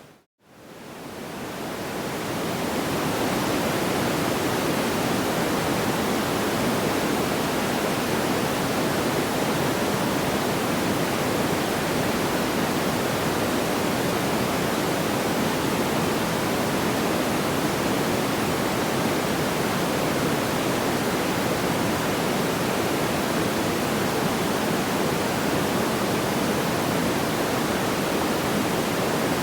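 Steady, even rushing noise like pink noise, without distinct crackles or pops. It cuts out completely just after the start and fades back in over about three seconds, the seam of a looped track.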